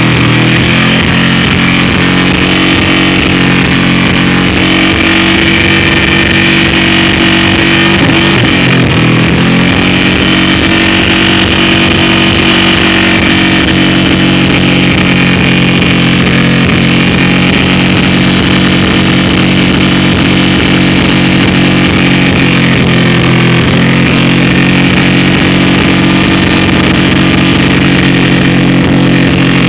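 Honda VTX 1800's V-twin engine revved and held at a steady speed. The revs dip briefly about nine seconds in and change again a little past two-thirds of the way through.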